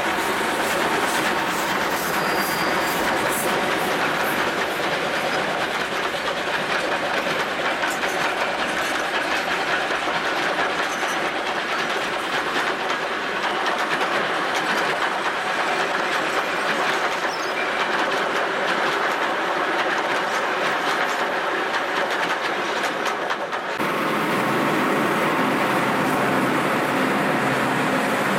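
Heritage train running on the Pichi Richi Railway, its wheels clattering rhythmically over the rail joints with a steady rush of running noise. Near the end it cuts abruptly to a steadier sound with a low hum.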